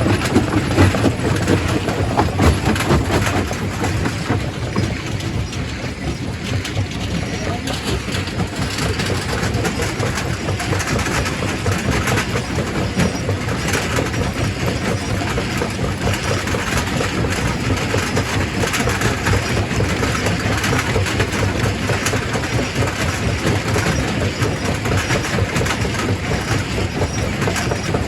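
Quarry primary rock crusher breaking stone: a continuous heavy rumble under a dense clatter of rock knocking and grinding, somewhat louder in the first few seconds.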